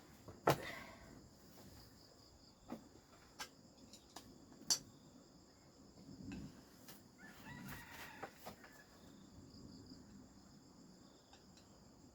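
A rooster crowing faintly once, a little past halfway, over a steady high chirring of insects, with scattered light clicks and taps.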